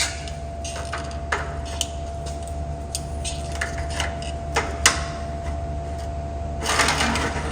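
Metal tools and small parts being handled on a workbench: scattered sharp clicks and clinks over a steady electrical hum, with a short rush of noise near the end.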